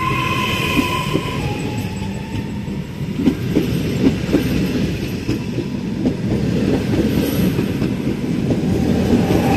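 Hitachi "Rock" double-deck electric train moving along the platform: a steady rumble with a clatter of wheels over the rail joints in the middle. A high whine at the start drops in pitch, fades, and comes back near the end.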